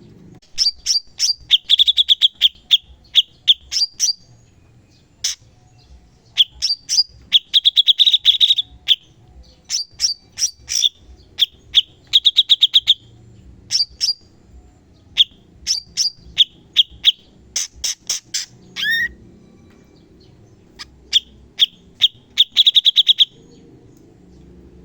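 Cucak cungkok singing rapid, sharp, high-pitched chattering bursts (the "tembakan" shots), in phrases of fast clicking notes broken by short pauses, with one downward-sliding whistle about three quarters of the way through.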